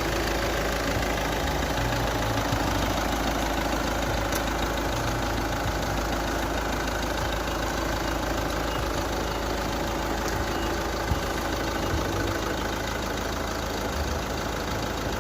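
Hyundai Terracan's engine idling steadily during a hydrogen decarbonising treatment.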